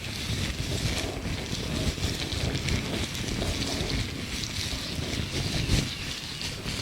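Gloved hands rubbing and crinkling against each other close to the microphone, a continuous rustle with a louder crackle near the end.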